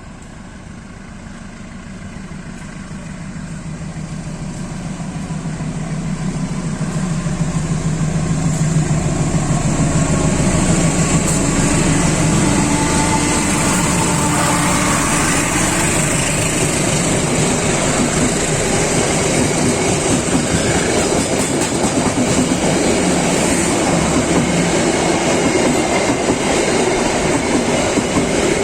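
Train approaching and passing on the track, its wheels running over the rails. It grows louder over the first nine seconds or so, then stays loud and steady.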